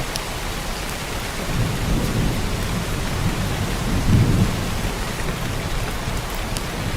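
Heavy downpour of rain, a steady dense hiss, with a low rumble that swells twice, about two and four seconds in, and a couple of sharp drip ticks.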